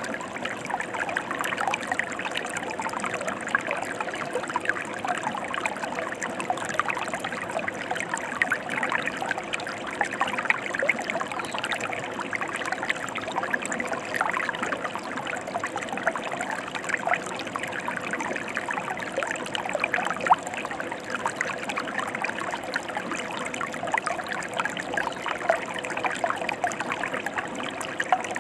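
Water of a stream or river flowing steadily: a continuous rush dotted with many small splashes.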